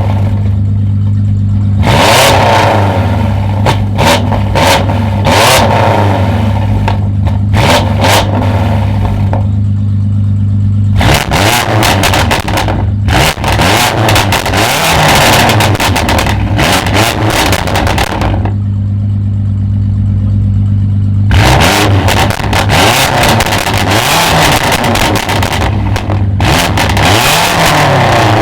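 Tuned performance car engine revved hard again and again, the pitch climbing and falling, with a rapid crackle of exhaust pops. It drops back to a steady idle in three short gaps between the rev sessions.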